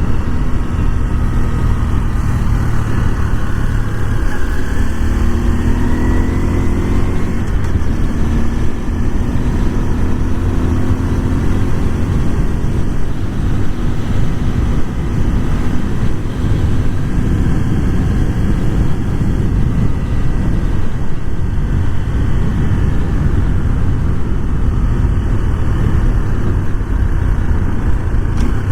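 Honda Super Cub 125's air-cooled single-cylinder engine running as the bike is ridden, under heavy wind and road noise. A few gliding, rising tones come through between about four and eight seconds in.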